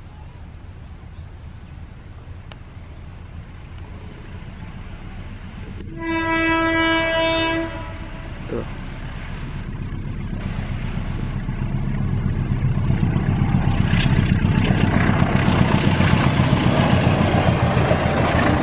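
Diesel-hauled passenger train approaching with a low engine rumble, sounding one horn blast of about a second and a half some six seconds in. The rumble and rail noise then build steadily as the train reaches and passes the level crossing. The crossing's automatic warning alarm stays silent because it is broken.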